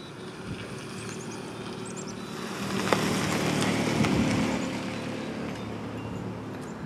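A motor vehicle passing by on the street: engine hum and tyre noise swell to a peak about three to four seconds in, then fade away. A short sharp click sounds near the peak.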